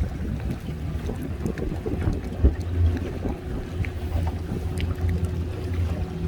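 Strong wind buffeting the microphone, a heavy fluctuating low rumble, over the steady running of a small fishing boat's outboard motor, with scattered light knocks.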